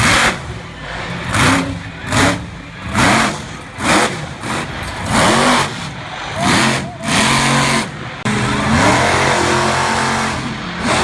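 Monster truck engine revving in a series of sharp throttle blips, roughly one a second, then held high for a couple of seconds near the end.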